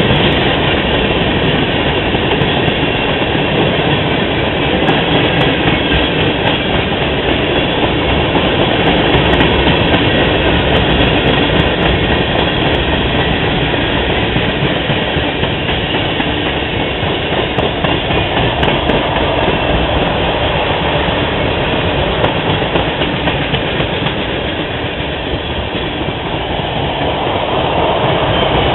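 Train rolling past on the track, a loud steady rumble and rattle of wheels and cars on rail that eases slightly near the end.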